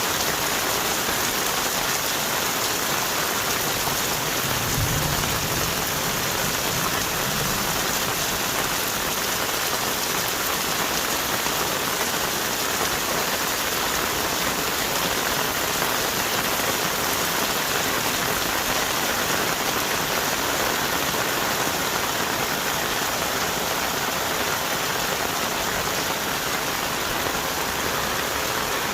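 Heavy tropical rain pouring steadily onto forest trees and foliage, with a brief low rumble about five seconds in.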